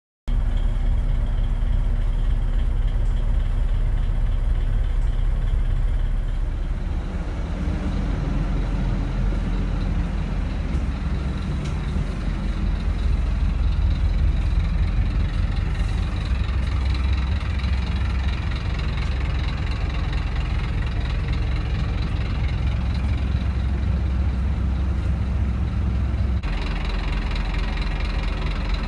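Scania K270 city bus's diesel engine idling steadily, a low, even rumble. Its tone changes abruptly twice, about a quarter of the way in and again near the end.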